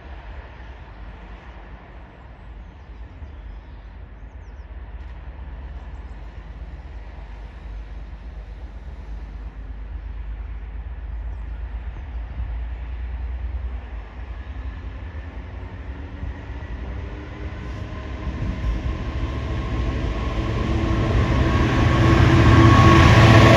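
Class 66 diesel-electric locomotive, with its two-stroke V12 engine, approaching at the head of a container freight train. A low rumble grows steadily louder, and the engine note comes through clearly over the last few seconds.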